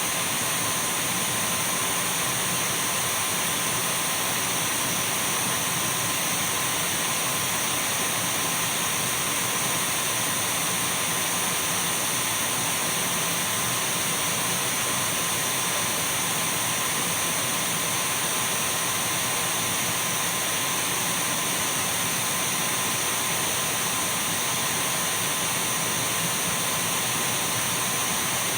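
Dyson V12 cordless stick vacuum running steadily, an even rushing hiss of motor and airflow with a thin steady whine and a fainter very high one, without any change in speed.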